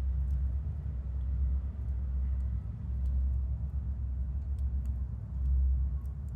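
A steady low rumble, swelling a little near the end, with sparse faint crackles from a wood fire burning in a chiminea.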